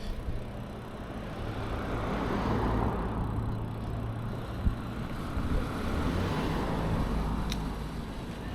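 Road traffic noise: a car passing with a steady rushing sound and low rumble, swelling about two to three seconds in and again near seven seconds.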